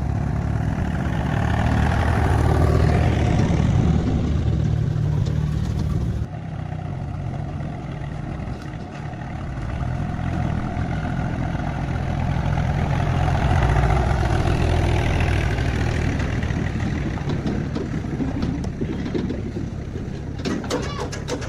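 A motor running with a steady low rumble that swells and eases, cutting abruptly about six seconds in and picking up again.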